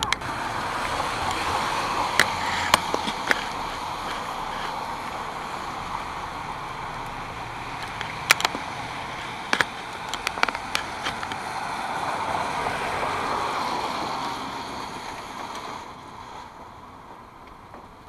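Steady rain falling, with sharp taps of drops striking something close by several times; the rain eases near the end.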